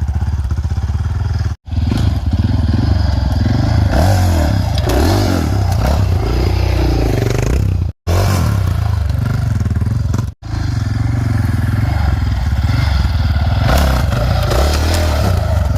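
Dirt bike engine running at low speed, its revs rising and falling with the throttle as the bike is worked slowly over a log. The sound cuts out abruptly three times.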